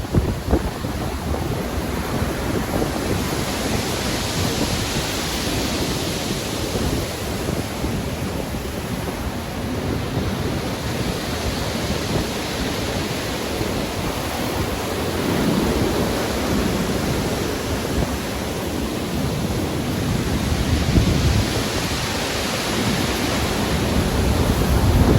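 Heavy surf and wind of a stormy sea: a steady rushing noise that swells and surges as waves break every several seconds.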